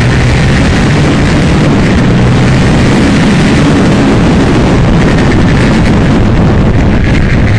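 Aprilia Tuono 1000 R's V-twin engine running continuously under load at track speed, loud and steady, with a dense rush of noise over it.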